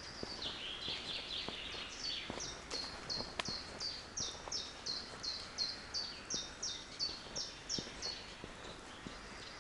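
A songbird singing: a brief jumble of high notes, then a long run of identical short down-slurred whistles, about three a second, that stops about a second before the end. Faint footsteps of the walker on the forest path underneath.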